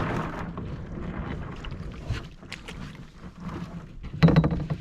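Canoe being paddled in shallow, rocky water near shore, with water and paddle sounds. About four seconds in comes a loud, sharp clatter of knocks.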